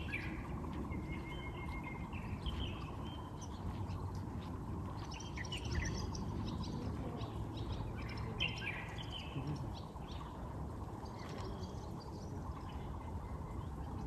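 Wild forest songbirds singing, short phrases and chirps coming every few seconds, over a steady low background rumble.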